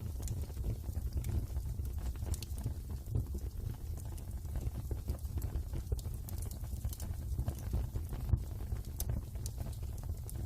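Wood fire burning in a fireplace: irregular crackles and pops over a steady low rumble, with a sharper pop about eight seconds in.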